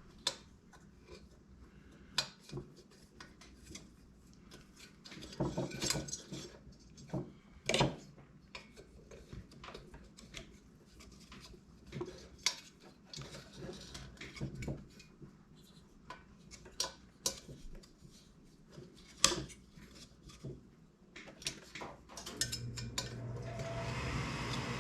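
Metal hand tools and small metal parts clinking and clattering at irregular intervals, as in hands-on work on a heater. Near the end a steady low hum starts up.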